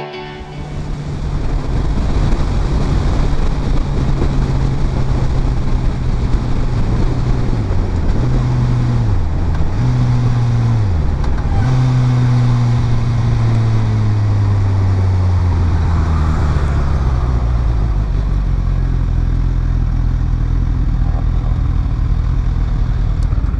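Suzuki GSX-S1000F inline-four motorcycle engine running at road speed under heavy wind rush. The engine note dips and recovers three times in quick succession about a third of the way in, then falls slowly as the bike slows.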